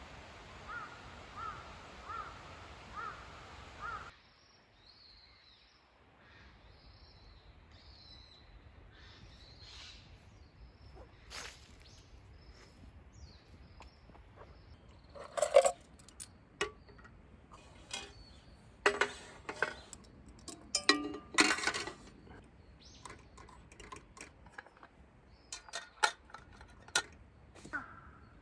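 Small birds chirping in short, high calls, followed by a series of sharp knocks and clinks, some of them ringing briefly.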